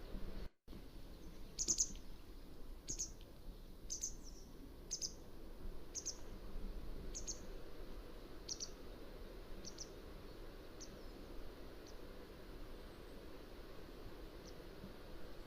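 Mountain wagtail calling: a series of short, sharp, high call notes about once a second, fading over the last few seconds, over a steady low background hiss. The sound cuts out for an instant just after the start.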